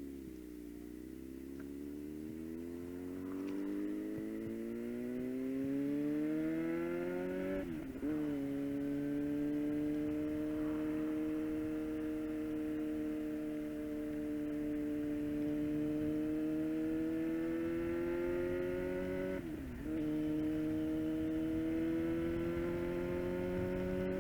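Suzuki GSX-R 750 inline-four running through a Yoshimura full exhaust, its pitch climbing as the bike accelerates. Twice, about eight seconds in and again near the end, the note breaks and drops for an upshift, then rises again.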